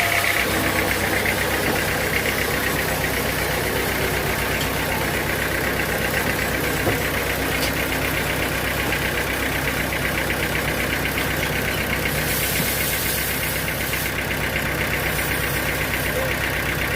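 An engine running steadily at an even speed, with a low, regular throb.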